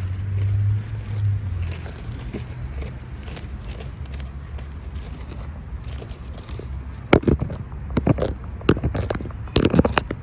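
Irregular crunching and scraping strokes, sharp and loud from about seven seconds in, over a steady low rumble.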